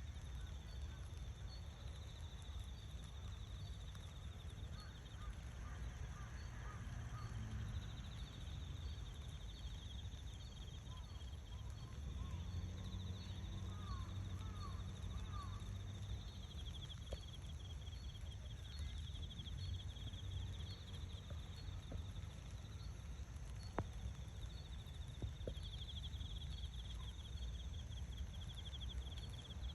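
Outdoor ambience: a steady, high, pulsing insect-like trill that comes and goes in long phrases, over a low continuous rumble. A few faint bird chirps and short rising calls sound near the middle, with a couple of sharp clicks later on.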